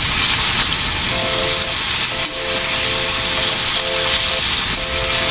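Cut long beans (sitaw) sizzling steadily in a steel wok as they stir-fry for adobong sitaw. Background music with held notes plays over it.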